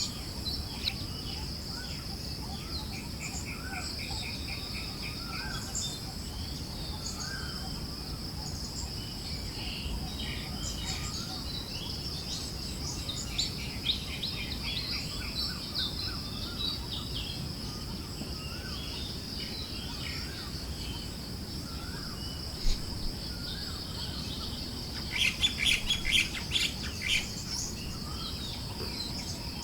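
Forest birds chirping and trilling over a steady high insect drone and a low, even background hiss, with a louder flurry of chirps near the end.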